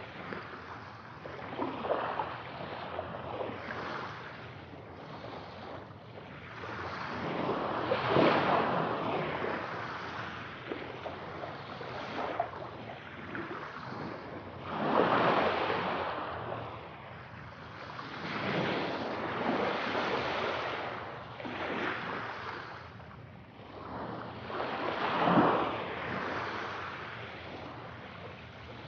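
Sea waves breaking and washing on the shore. They come as a steady rush of surf that swells every few seconds, with bigger breakers about eight, fifteen and twenty-five seconds in.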